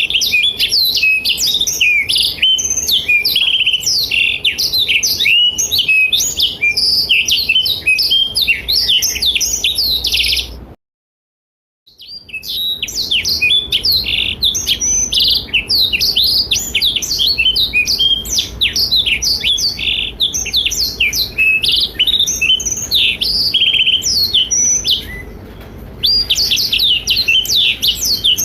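Blackthroat (black-throated canary) singing a fast, unbroken, high warbling song of rapid trills and twittering phrases. The song cuts off dead for about a second near the middle, then picks up again.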